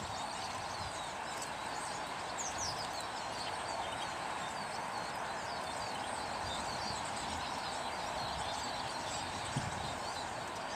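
Small garden birds chirping, with many short high calls scattered throughout, over a steady background hiss.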